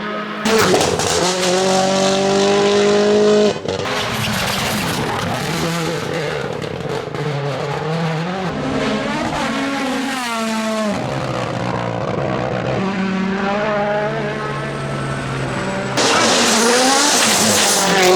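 Turbocharged four-cylinder rally cars at full throttle on a rally stage, their engine note climbing and dropping through quick gear changes. One car follows another, with abrupt switches between passes.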